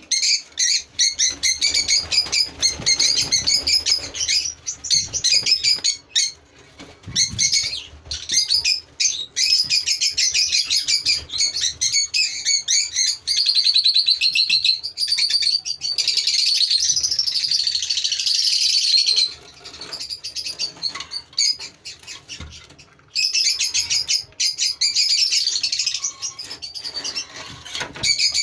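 A flock of lovebirds chattering, with dense, rapid, shrill overlapping chirps that thin out for a few seconds past the middle and then pick up again.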